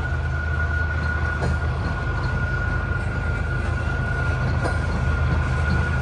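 Loaded coal train rolling slowly past uphill: a steady low rumble of diesel locomotives and heavy cars, with a continuous high-pitched squeal over it.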